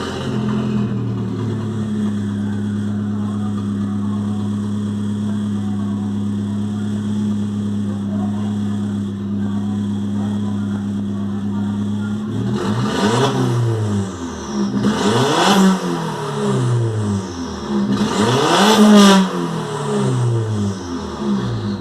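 Tuned VW 1.8-litre 20-valve turbo four-cylinder engine idling steadily, then revved hard three times from about halfway through, each rev climbing and falling back in pitch.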